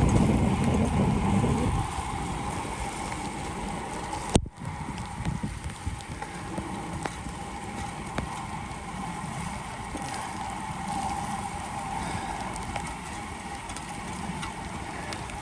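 Bicycle rolling along a wet paved trail in the rain with steady tyre and road noise. Wind rumbles on the microphone for the first couple of seconds, and there is a single sharp knock about four seconds in.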